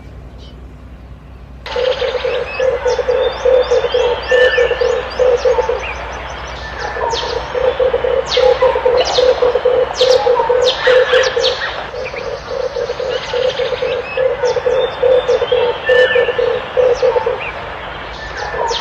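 Red turtle dove cooing: long runs of rapid, rough, pulsed coos, starting after a quieter second or two and pausing briefly now and then. Other small birds chirp sharply over them.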